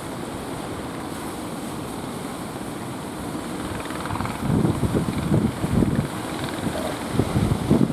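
Strong wind rushing steadily, then buffeting the microphone in irregular low gusts from about halfway in.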